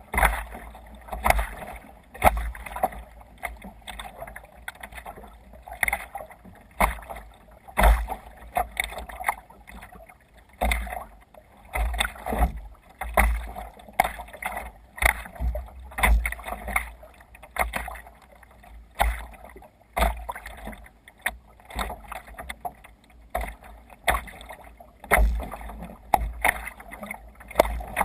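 Water splashing and slapping around a sea kayak under way, in irregular sharp hits roughly once a second, with wind rumbling on the microphone.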